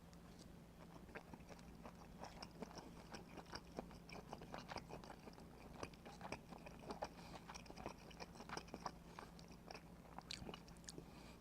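Faint, irregular mouth sounds of a person chewing pieces of smoked pork belly, with small wet smacks and clicks, over a steady low hum.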